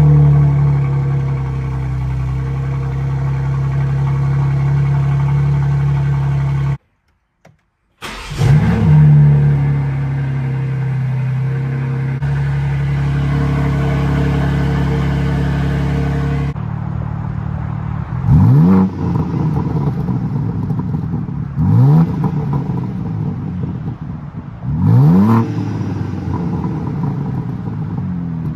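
BMW M3 Competition's S58 twin-turbo straight-six, through a MAD single midpipe, starting with a quick rising flare and settling into a steady idle. It is heard starting twice. Then the engine is blipped three times, each rev rising and dropping back quickly to idle.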